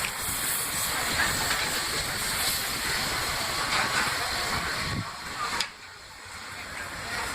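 Steam hissing steadily from a 4-6-2 Pacific steam locomotive, which drops off suddenly about five and a half seconds in and then builds up again.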